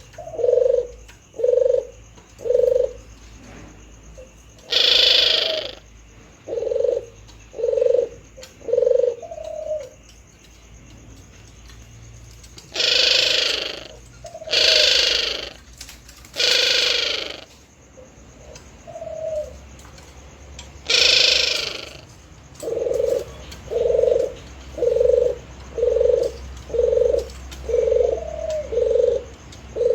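Male puter doves cooing: a string of short, low coos about once a second. These are broken five times by longer, louder, harsher calls, three of them close together in the middle.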